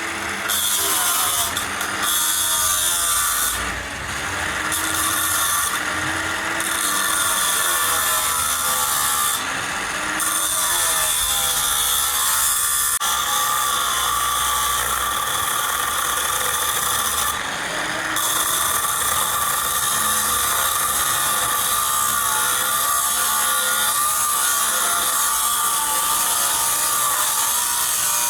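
A power tool working on metal, a steady grinding noise whose pitch wavers and that eases off briefly a few times.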